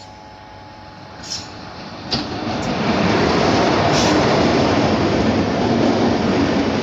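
Janki Express, a passenger train hauled by an electric locomotive, passing close on the next track: the sound swells over the first few seconds as the locomotive comes alongside, then holds as a loud, steady rumble and clatter of coaches going by, with a few sharp clicks.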